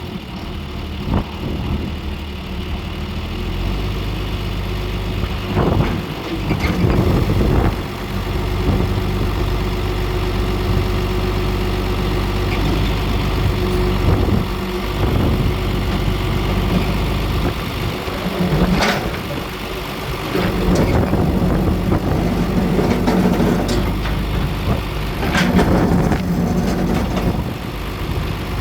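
John Deere 4430's six-cylinder turbo diesel engine running steadily, with its low note getting stronger about four seconds in. Several short knocks are heard over the engine.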